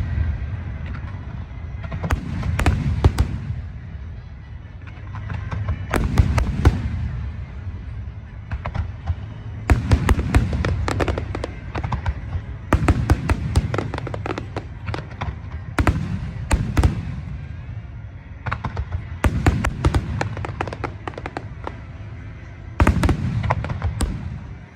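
Fireworks display: clusters of shell bursts and crackling every two to three seconds, over a steady low rumble.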